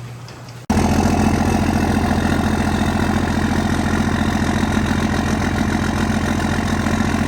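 Truck engine idling steadily. It cuts in abruptly about a second in.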